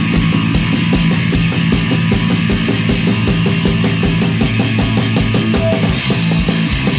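Punk rock band playing live at full volume: distorted electric guitar and bass over fast, driving drums, an instrumental passage with no singing.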